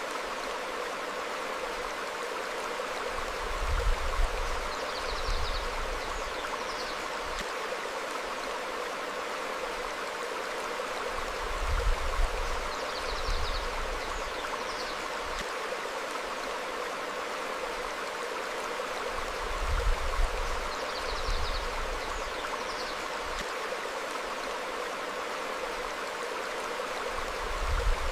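Stream flowing over rocks, a steady rushing of water. Short high bird chirps come every several seconds, and about every eight seconds a deep low rumble swells up briefly, the loudest moments.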